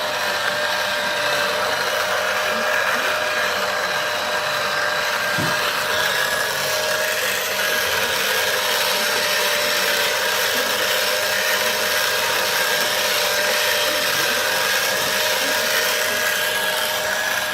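An engine running steadily at a constant speed, with a high whine over a hiss.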